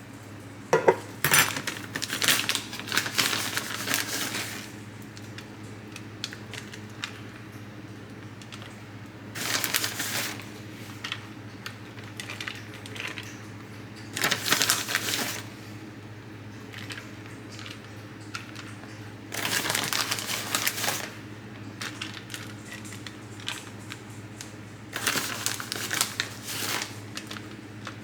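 Short bursts of rustling, crinkling and clinking handling noise, five of them about five seconds apart, over a steady low hum.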